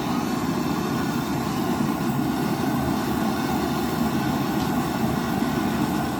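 A loud, steady rushing mechanical noise that cuts off suddenly at the end.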